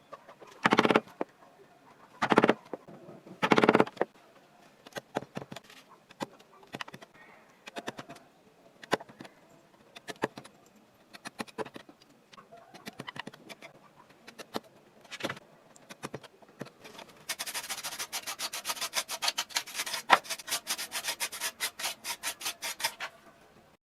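Sandpaper rubbing on carved wood: a few long strokes at the start, then scattered light scrapes and taps, then fast back-and-forth sanding strokes, about seven a second, over the last six seconds.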